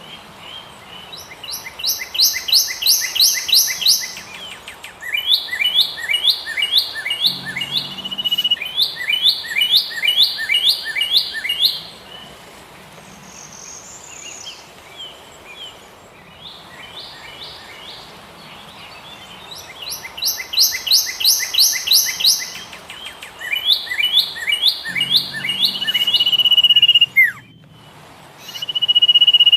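A songbird singing runs of rapid, evenly repeated chirps, several notes a second, in bursts of a few seconds with short pauses between. A long steady whistled note comes near the end.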